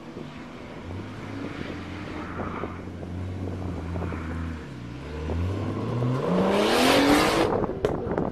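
Nissan Skyline R33 drift car's engine running at low revs as the car creeps, then revving up and accelerating away, its pitch climbing steadily for about two seconds to a loud rush of noise. A few sharp cracks follow near the end.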